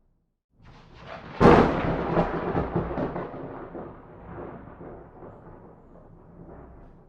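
A clap of thunder: a rumble builds about half a second in, breaks into a sharp loud crack about a second and a half in, then rolls on and slowly fades away over the next five seconds.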